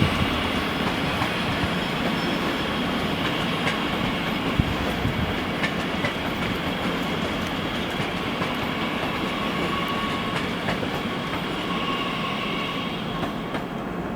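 A train rolling past on the tracks: a steady rumbling noise with a few scattered clicks from the wheels, slowly easing off toward the end.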